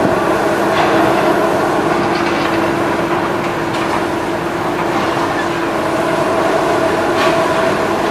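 Heavy demolition machinery running: a steady engine drone with a few scattered clanks.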